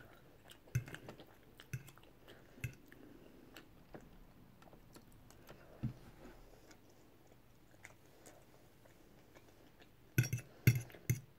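A person quietly chewing a mouthful of paella, with a few soft clicks at first. Near the end comes a quick run of louder sharp clicks.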